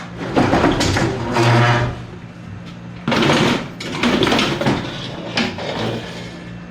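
Irregular clatter and scraping of objects being handled and moved, in several bursts, over a steady low hum.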